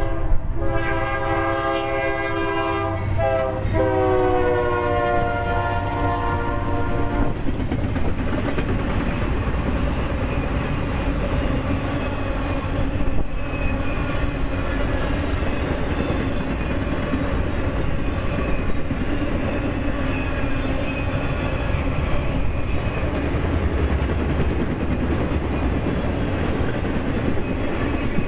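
Norfolk Southern freight locomotive horn sounding a multi-note chord that drops in pitch about three to four seconds in as it passes, and stops about seven seconds in. Then the steady rumble and wheel clatter of intermodal flatcars loaded with truck trailers rolling past.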